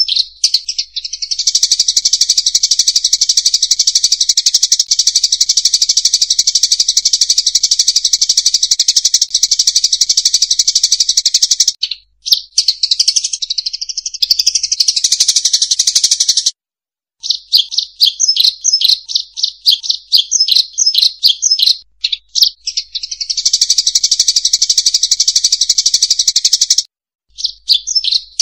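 Dense, high-pitched chirping of a flock of rice-field munias (emprit), played as a bird-trapping lure call. Stretches of continuous chatter are cut off abruptly by brief dead silences, and in the middle there is a run of separate quick chirps at about four a second.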